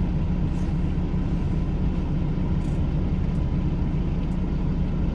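Semi truck's diesel engine and road noise, a steady low drone while the truck is driving.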